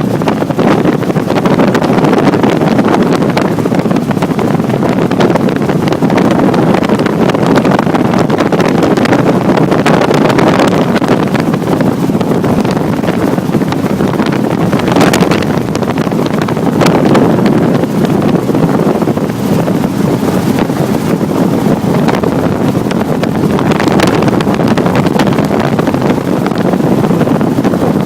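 Helicopter in flight heard from inside the cabin: loud, steady rotor and engine noise, with wind buffeting the microphone.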